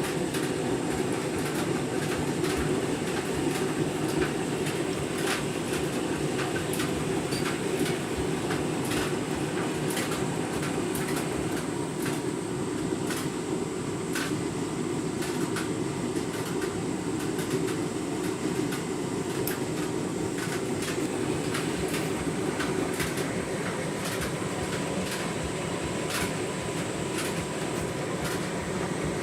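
Candy front-loading washing machine in a deep rinse: the drum turns steadily through the rinse water, with a constant churning rumble and scattered light clicks and splashes.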